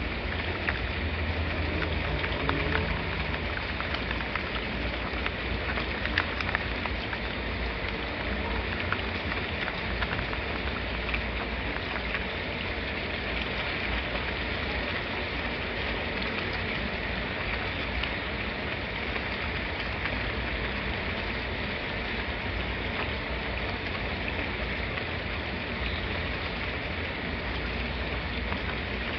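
Steady, heavy rain falling, a continuous hiss with scattered individual drop ticks and a low rumble underneath.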